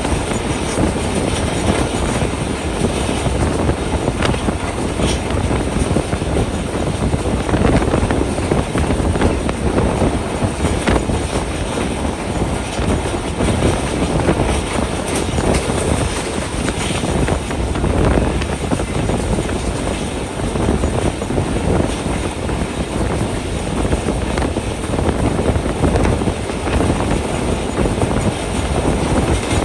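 Passenger train running at speed, heard from on board: a steady rumble of wheels on the rails with occasional short knocks.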